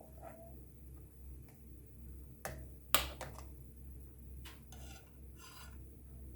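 A spoon stirring milk in a cooking pan: two sharp knocks of the spoon against the pan about two and a half and three seconds in, the second the loudest, then a few softer scraping strokes.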